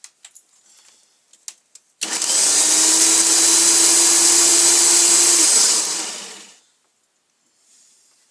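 McGregor electric lawnmower's motor switched on about two seconds in, running steadily for about three and a half seconds, then switched off and spinning down. It is the test run after the cut power cable was fitted with a new plug, and the mower works again.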